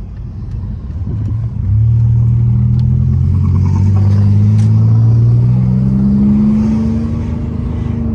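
Muffler-deleted 3.8-litre V6 exhaust of a 2002 Pontiac Grand Prix GT under acceleration. A low rumble for the first second and a half, then it gets louder and drones, rising slowly in pitch as the car pulls through a gear, and eases off right at the end.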